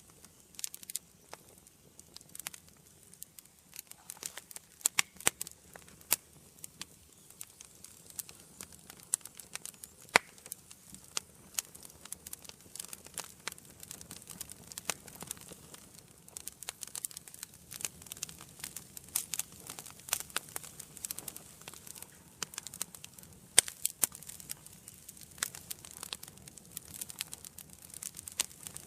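Wood fire burning in a fireplace, crackling with frequent irregular sharp pops and snaps over a soft, steady hiss.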